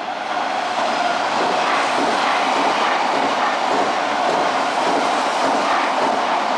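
Odakyu 50000 series Romancecar VSE electric train passing close by, a loud steady rush of wheels on rails. It grows louder in the first half second, then holds steady.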